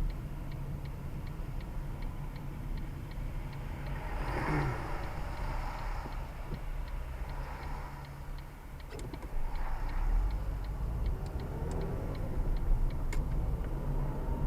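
Car turn-signal indicator ticking at an even rhythm inside the cabin, over the low rumble of the idling car; a passing vehicle swells the noise twice.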